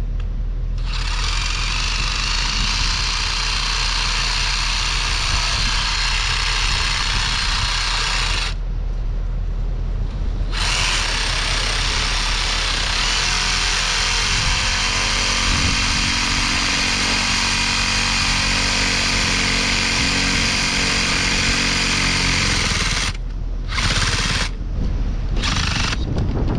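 A power tool runs in two long runs with a pause of about two seconds between them, cutting through the PVC water line. A steady low hum continues underneath.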